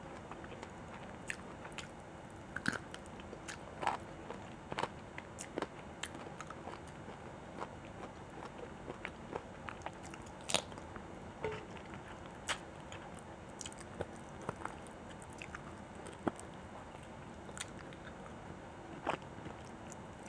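Close-miked eating: irregular wet clicks and crunches of chewing and biting, with occasional louder snaps.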